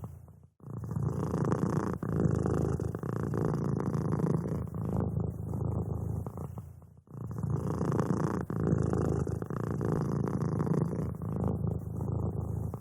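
Domestic cat purring: a steady low rumble that breaks off briefly about half a second in and again about seven seconds in, then resumes.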